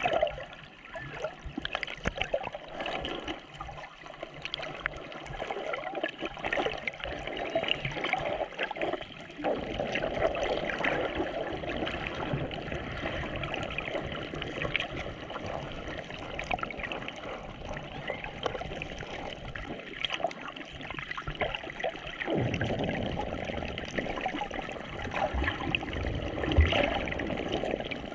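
Water sloshing and gurgling right at the microphone, full of small crackles. The sound fills out and grows steadier about a third of the way in, and changes again about four fifths of the way through.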